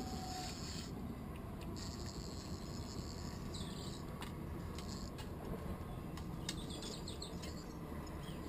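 Small birds giving short, high chirps and trills a few times over a steady low rumble of outdoor background noise.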